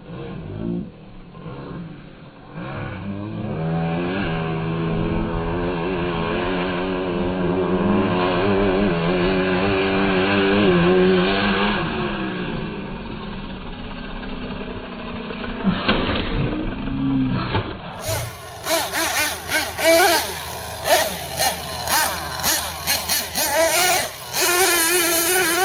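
Small nitro engine of a Team Associated MGT 8.0 RC monster truck running hard: its pitch climbs as it speeds up, then falls as it passes by. After a cut comes a string of quick throttle blips, the revs jumping up and down.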